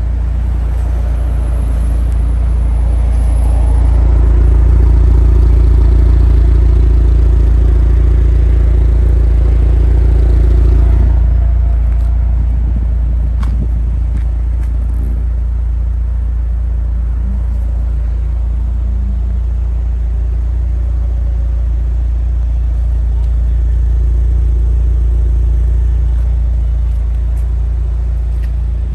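Mitsubishi Lancer Evolution VI Tommi Makinen Edition's turbocharged 2.0-litre four-cylinder running at a steady idle, a deep rumble through its large-bore sports exhaust. It is a little louder for the first ten seconds or so.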